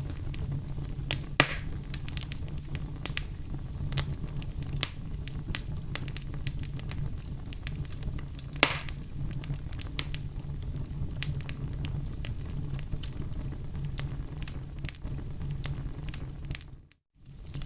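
Wood fire in a fireplace crackling: a steady low rumble of burning with scattered sharp snaps, and two louder pops about a second and a half and eight and a half seconds in. The sound cuts out for a moment near the end.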